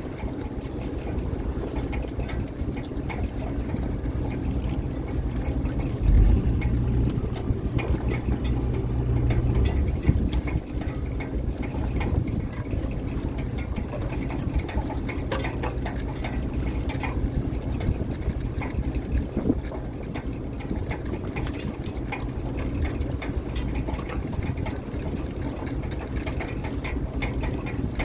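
A fishing boat's engine running steadily with a low, even drone, with scattered clicks and knocks over it and a louder low thump about six seconds in.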